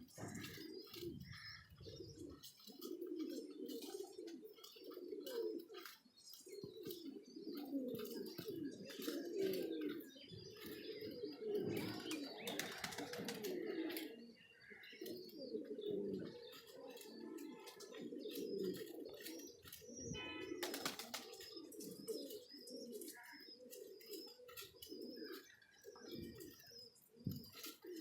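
A loft full of domestic pigeons cooing continuously, many voices overlapping, with scattered high chirps and occasional short clicks and wing flaps.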